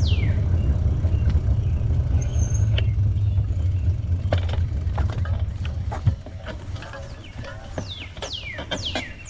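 Low steady rumble from riding a bicycle, with a bird repeating quick downward-sliding whistles at the start and again near the end. The rumble drops off about six seconds in, leaving scattered ticks.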